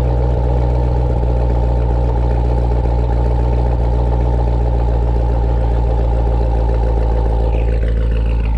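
2019 Corvette Z06's supercharged 6.2-litre LT4 V8 idling loudly and steadily at its raised idle shortly after a cold start. A faint falling whine is heard near the end.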